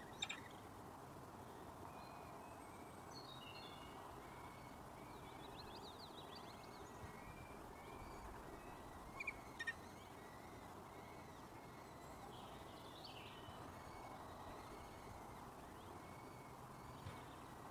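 Faint bird calls, a scattered run of short high chirps, over a steady hiss of outdoor background noise, with a sharper call just after the start and two more about nine seconds in.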